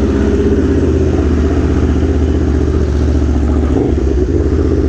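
Aprilia Tuono V4 1100 Factory's V4 engine, fitted with an SC Project CR-T exhaust, running steadily at one constant pitch without revving.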